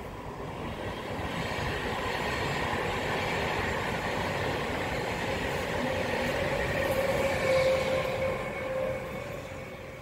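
A Trenitalia double-deck regional passenger train (Vivalto coaches) passing on the line: the rumble of wheels on rail builds up, is loudest about seven to eight seconds in, then fades away. A steady whine comes in over the loudest part.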